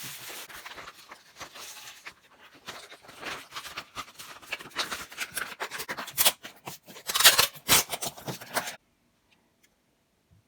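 Bead curtain strands clicking and rattling against each other as they swing, busiest about seven seconds in, then stopping suddenly near the end.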